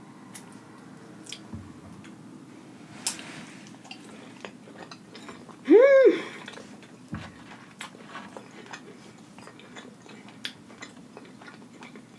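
Close-up chewing and small wet mouth clicks of someone eating saucy rotisserie chicken. About six seconds in comes one loud closed-mouth "mmm" of enjoyment that rises and then falls in pitch.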